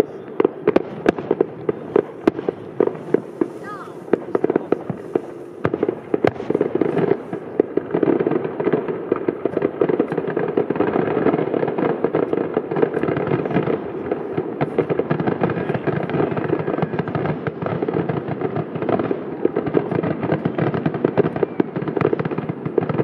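Aerial fireworks going off in quick succession, sharp bangs and crackles that crowd together into a near-continuous barrage from about a third of the way in, over the voices of people talking.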